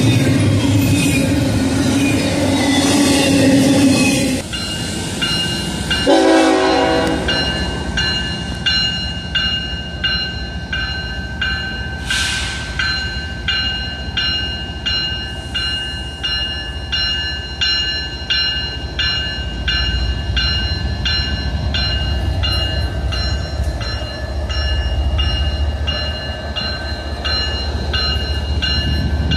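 Double-stack container cars of a BNSF freight rumble and clatter past close by for the first few seconds. Then a short horn note sounds, followed by a bell ringing steadily in even strokes, typical of a crossing warning bell, while the diesel rumble of an approaching BNSF freight grows underneath.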